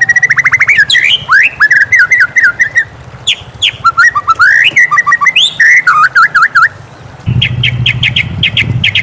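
White-rumped shama singing: a loud, varied string of whistled notes, sweeps and quick trills. After a short pause near the end, it gives a fast run of short repeated chattering notes over a low rumble.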